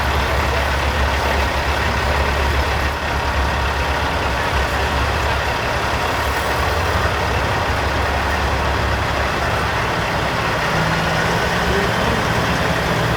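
Diesel engines of Peterbilt semi trucks running at a steady idle, a continuous low drone under a broad haze of crowd and street noise. About eleven seconds in the low engine note steps up higher.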